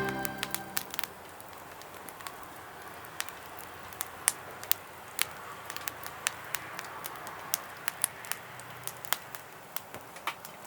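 Wood fire crackling in a fire pit: irregular sharp pops, a few a second at most, over a low steady hiss.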